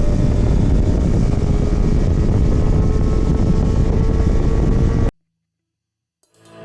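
Motorcycle riding noise: the engine running at a steady cruise under heavy wind rush, its note sinking slightly. It cuts off suddenly about five seconds in, and music begins faintly at the very end.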